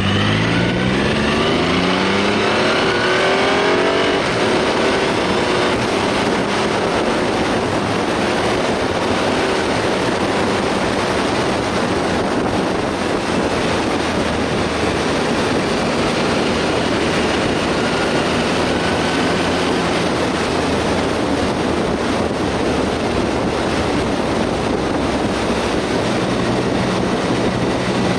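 Triumph Rocket 3 Roadster's inline three-cylinder engine accelerating, its pitch rising over the first few seconds, then running steadily at cruising speed under a constant rush of wind and road noise.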